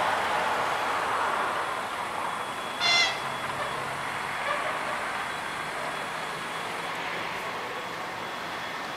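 Passenger train hauled by an EP2K electric locomotive rolling past on the rails, its noise fading as it moves away. About three seconds in, a short high-pitched tone sounds once.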